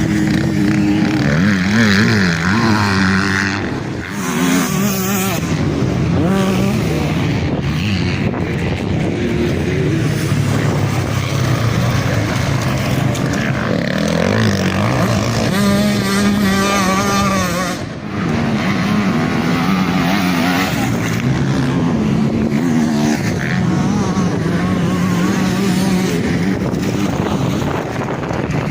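Motocross bikes racing, their engines revving up and dropping back again and again as riders accelerate and shift around the track, with more than one bike heard at once.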